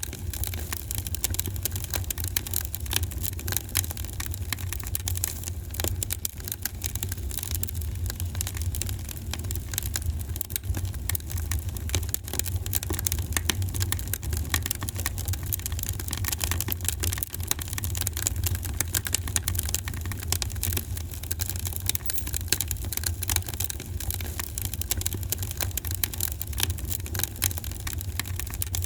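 Fireplace fire crackling, with many small irregular pops and snaps over a steady low rumble.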